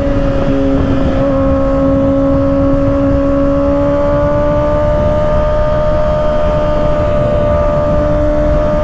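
2024 Kawasaki ZX-6R's 636 cc inline-four running through an M4 aftermarket exhaust at steady high revs, its pitch creeping slowly upward, under a heavy rush of wind noise.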